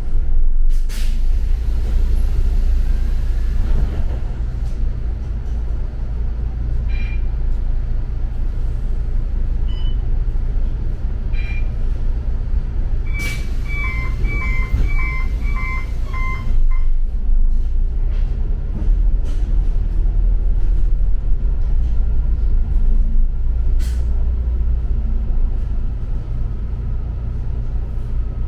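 Inside a moving double-decker city bus: steady engine and road rumble with occasional rattles and clicks. About halfway through comes a few-second run of short electronic beeps on two alternating pitches, typical of the bus's onboard chime.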